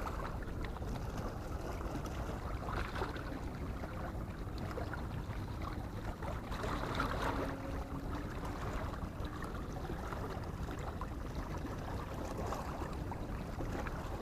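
Steady low rumble of wind on the microphone mixed with harbour water, with no distinct events standing out.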